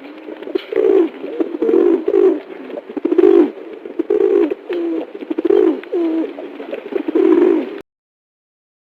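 A bird cooing: a series of about eight low, repeated coos that stop abruptly near the end.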